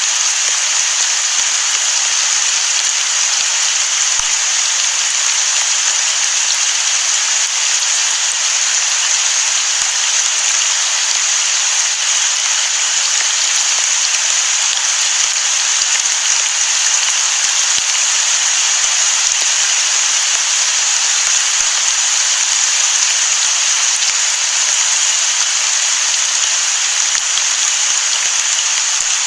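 Steady rain falling on the sea: an even, unbroken hiss with no thunder.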